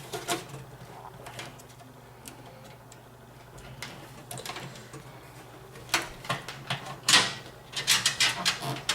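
Light clicks and taps of computer hardware being handled and fitted in a PC case, growing busier from about six seconds in, over a steady low hum.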